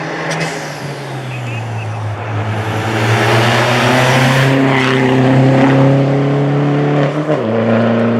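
Rally car accelerating hard along the stage, its engine pitch climbing steadily as it gets louder on approach, with quick upshifts just after the start and about seven seconds in.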